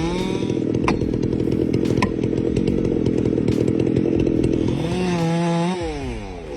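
Two-stroke chainsaw cutting into wood under load, its engine note rough and dense. About five seconds in it revs freely, clear of the cut, then winds down as the throttle is released near the end.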